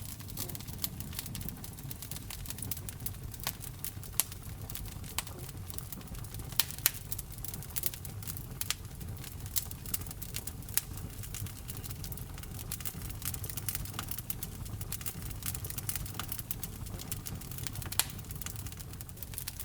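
Wood fire burning in a fireplace: a low steady rumble of flames with irregular crackles and sharp pops, a few louder pops about four, seven and eighteen seconds in.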